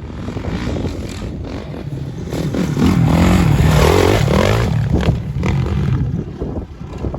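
Off-road motorcycle engine revving, its pitch rising and falling, loudest through the middle few seconds.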